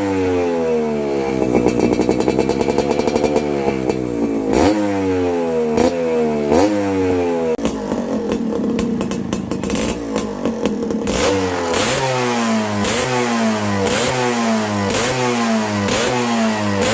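Yamaha RX135 two-stroke engine with an expansion chamber exhaust being revved in repeated throttle blips, the pitch jumping up and sliding back down each time. Early on one rev is held a few seconds; in the second half the blips come quickly and evenly, more than one a second.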